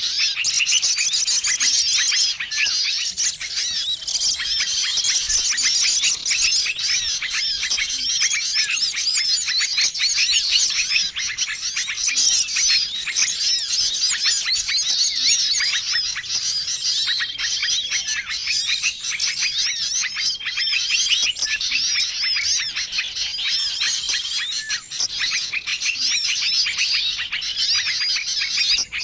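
Bird-lure recording of many small songbirds calling at once: a dense, unbroken chorus of rapid chirps and twitters, with a short steady whistled note that comes back every couple of seconds. It is a mixed 'ribut' (noisy) lure call made to draw wild small birds in.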